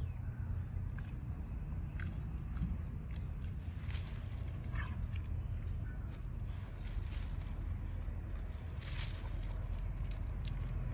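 Insects chirping in short regular pulses about once a second, over a steady high-pitched insect drone and a low rumble.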